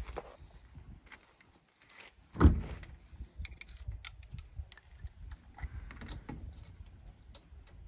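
Scattered clicks and knocks of metal tools and wheel parts being handled, with one heavy thump about two and a half seconds in.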